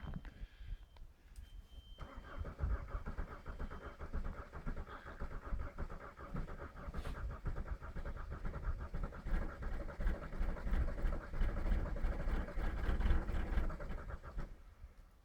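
VW ALH 1.9 TDI diesel engine being cranked on the starter in deep cold, labouring to fire on gelled fuel. It starts about two seconds in and cuts off abruptly near the end.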